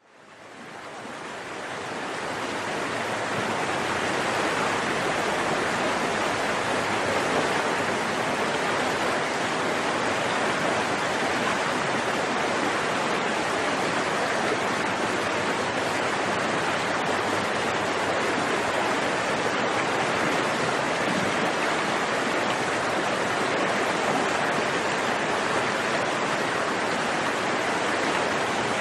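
Forest stream flowing, a steady rush of running water that fades in over the first few seconds.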